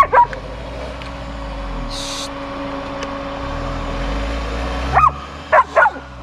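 Camper van engine running and revving in two long surges as the driver tries to pull it out of soft sand. A dog barks sharply twice at the start and several times near the end.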